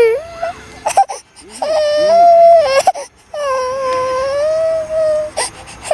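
A small child crying in long, drawn-out wails: a cry ending about half a second in, then two more, the last held for about two seconds. The child is frightened.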